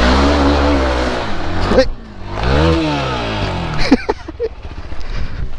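Dirt bike engine revving up and dropping back twice as the rider works the throttle, with a sharp knock about two seconds in and another near four seconds.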